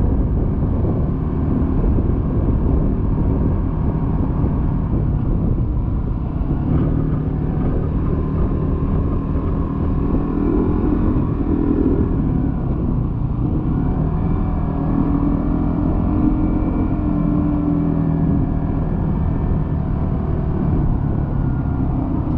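Motor vehicle on the move: a steady low rumble of engine and road noise, with the engine note rising and falling a couple of times as it speeds up and eases off.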